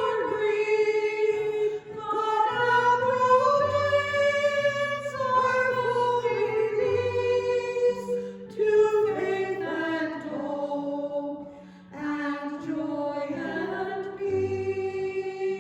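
Choir singing a hymn in sustained phrases over held low accompaniment notes, with brief breaks between phrases.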